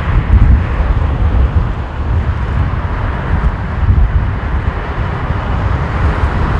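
Jet airliner's engines running on a landing approach, a broad rushing roar, with heavy gusty wind buffeting the microphone underneath it.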